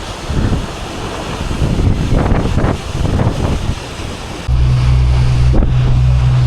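Wind buffeting the microphone over rushing water and spray, in gusts. About four and a half seconds in, a loud steady low engine hum cuts in abruptly.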